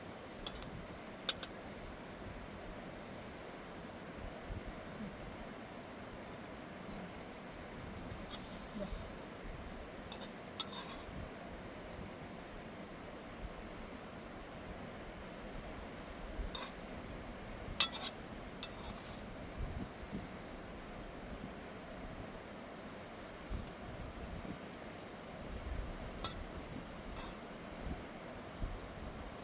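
Cricket chirping steadily in a fast, even pulse, with a few scattered sharp clicks and knocks, the loudest about 18 seconds in.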